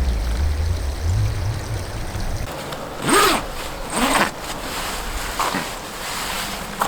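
A zipper pulled in quick rasping strokes: two strong ones about a second apart and a fainter third, over a steady rush of wind noise.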